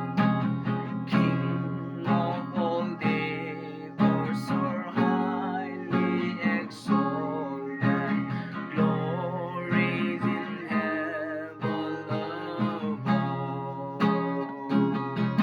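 Strummed acoustic guitar music, with strong strokes about once a second.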